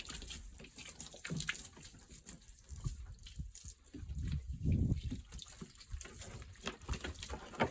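Water being applied to a freshly sawn white oak board, with scattered small knocks and handling sounds.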